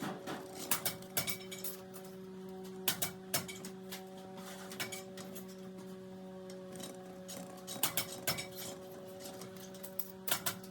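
A steady electric machine hum in a metalworking shop, with irregular sharp metallic clicks and clinks of steel parts being handled.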